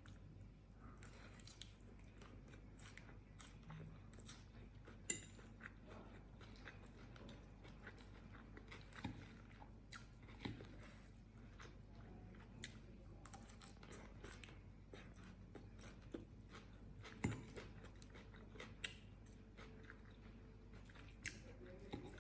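Close-miked mouth sounds of a person chewing and crunching mouthfuls of chicken, greens and mixed vegetables, with many small wet clicks and crackles and a few sharper crunches, the loudest about five seconds in and again near seventeen seconds.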